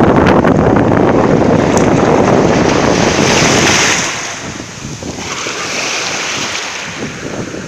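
Wind buffeting the microphone with a heavy rumble, which eases off about four seconds in. Black Sea surf is left washing onto the shore in swells.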